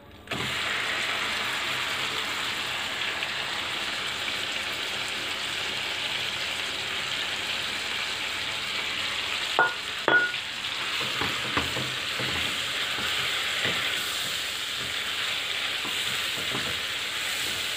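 Yogurt-marinated chicken pieces sizzling steadily in hot melted butter and oil in a frying pan, the sizzle starting suddenly as the chicken goes in. A silicone spatula stirs them, knocking lightly on the pan twice about ten seconds in.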